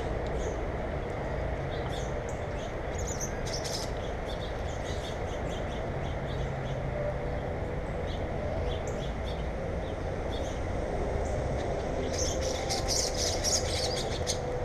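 Songbirds chirping in many short, high calls, scattered at first and then in a dense run near the end, over a steady low rumble of unclear source.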